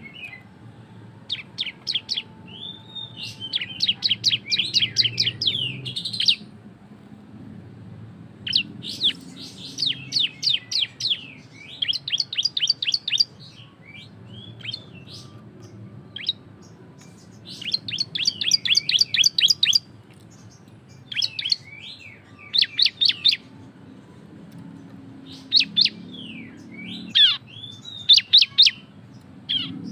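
A ciblek (prinia) singing loud, rapid 'ngebren' trills: about seven bursts of fast, high, repeated chirping notes, each lasting one to three seconds with short pauses between them, over a faint low hum.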